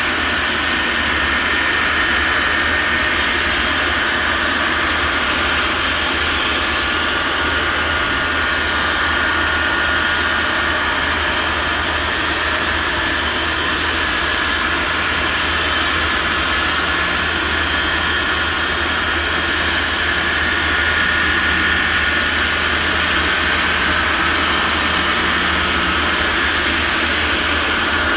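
Jet engines of a Boeing 747-251B freighter, Pratt & Whitney JT9D turbofans, running steadily: a constant broad rush with a steady high whine on top, unchanging in level or pitch.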